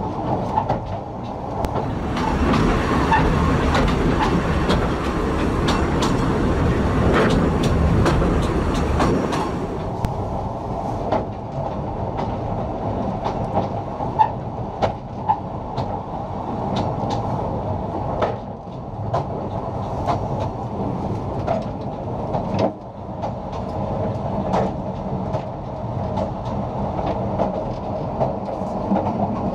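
Narrow-gauge (2 ft 3 in) passenger train running along jointed track, a steady rumble with the wheels clicking over the rail joints. A louder rushing noise rises about two seconds in and falls away by about ten seconds.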